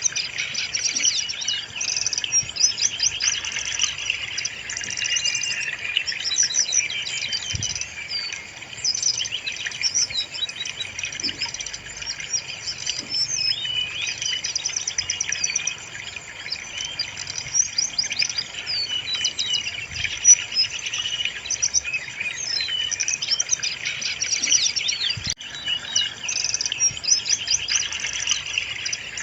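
Brown-chested jungle flycatcher song: a continuous stream of rapid, high-pitched chirps, whistles and trilled phrases, overlapping densely without a pause.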